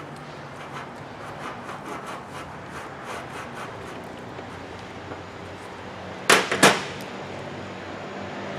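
Hand work on a workbench: a run of light clicks and taps as a hose and fittings are handled, then two loud sharp knocks close together about six seconds in, over a steady low shop hum.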